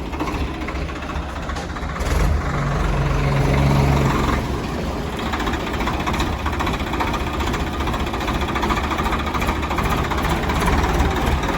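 Swaraj 744 XT tractor's diesel engine running steadily at low revs, swelling a little louder for a couple of seconds about two seconds in.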